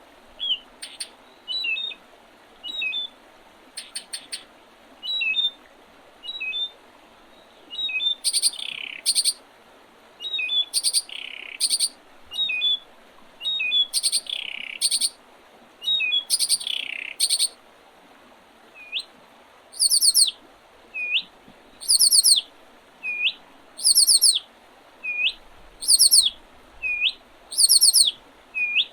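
Songbirds singing in spring. Short upswept call notes repeat about once a second throughout, with higher rapid trilled phrases and a few falling phrases in the middle.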